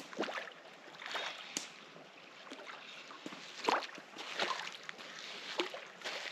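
Water splashing and sloshing unevenly as a hooked European carp is brought in at the water's edge.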